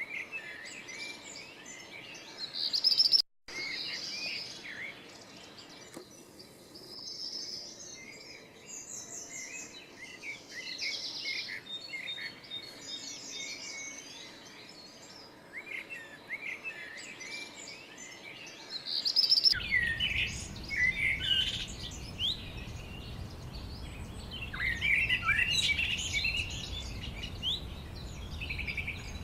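Songbirds chirping and twittering, with many short overlapping calls and quick falling notes. There is a brief gap about three seconds in, and from about two-thirds of the way through a steady low rumble runs underneath.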